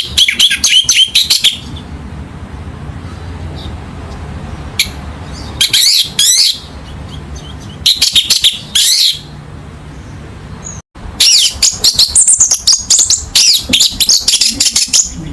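Orange-headed thrush (anis merah) singing in four bursts of rapid, varied, high-pitched whistled phrases, the last and longest near the end. A low steady hum runs underneath.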